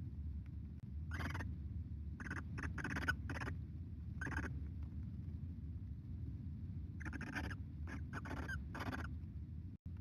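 Barn owls in a nest box giving about ten short, breathy hissing calls in two clusters, over a steady low hum.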